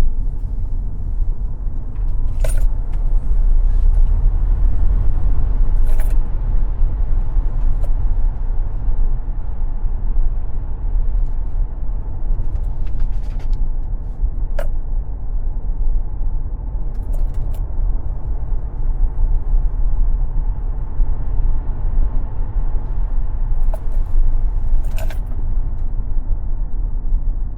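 Tesla Model X electric car driven at speed on a racetrack: a steady, heavy low rumble of tyre and road noise, with no engine sound. A few sharp clicks or rattles stand out, about four across the stretch.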